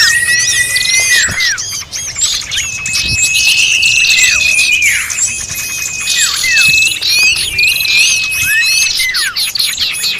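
A recorded bird-lure chorus of many small songbirds calling noisily over one another. Long level whistles drop sharply in pitch at their ends, among many quick chirps and trills.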